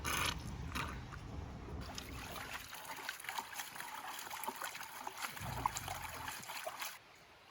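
Water trickling and sloshing lightly in a gold pan, with many small crackling drips, then cutting off suddenly near the end.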